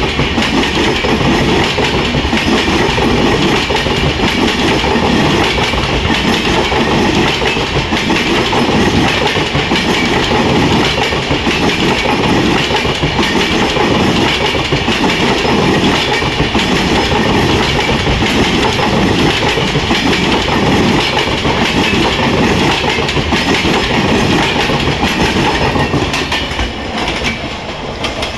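Passenger express train running past on the rails: a loud, steady rumble of wheels clattering over the track, which drops away near the end.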